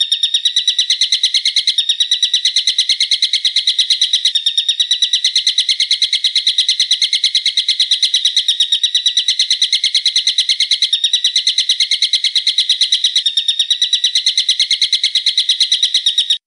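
A bird calling in a fast, unbroken run of sharp, evenly repeated notes, about seven a second, that stops abruptly near the end.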